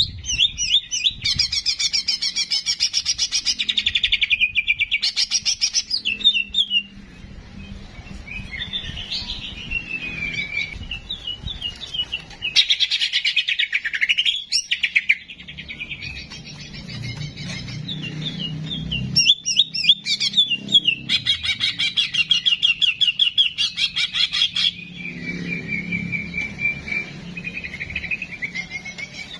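Songbird singing a tutor-song recording: fast high trills and chattering runs alternate with slurred whistled notes, in phrases of a few seconds with short pauses between them.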